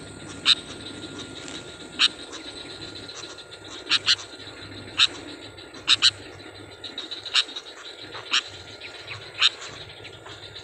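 Sooty-headed bulbul (kutilang) giving short, sharp call notes, about a dozen, irregularly about one a second, some in quick pairs.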